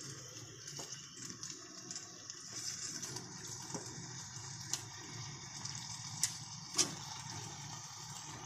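Chicken pieces sizzling faintly in hot oil with onions and tomatoes in a metal pot, with a few sharp clicks as more pieces go in.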